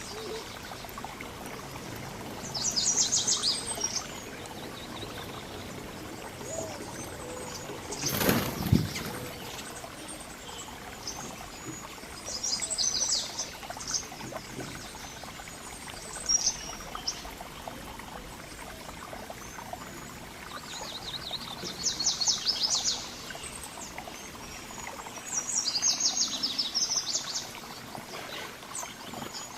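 Songbirds singing: short phrases of rapid, high trilled notes come four times over a steady background hiss. About 8 seconds in, a brief broad noise, the loudest moment, stands out.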